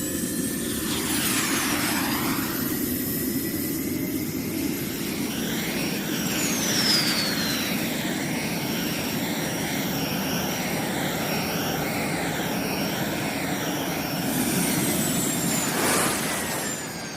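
RC model airplane flying, its motor and propeller making a steady high whine. The pitch falls each time the plane passes by, several times over.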